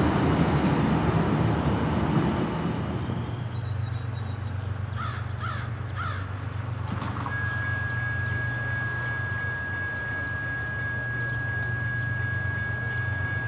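The noise of a passing freight train fades away over the first couple of seconds. A crow caws three times in quick succession about five seconds in. A steady high-pitched tone then sets in and holds over a low steady hum.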